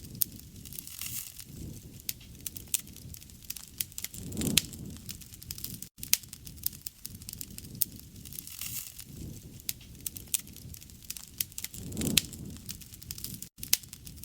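Wood fire crackling, with many irregular sharp pops and snaps. A low rushing sound swells up about every three to four seconds.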